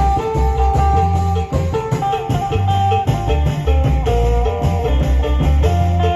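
Isan phin (plucked lute) playing a lively repeating melody over a strong low bass line, as band music.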